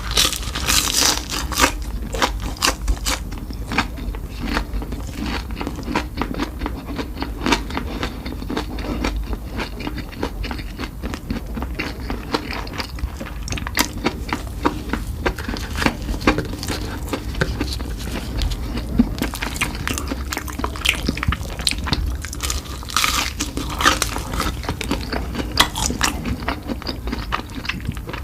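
A person eating with loud mouth sounds: repeated biting, crunching and chewing, full of crackles and wet clicks, busiest about a second in and again near the end, over a steady low hum.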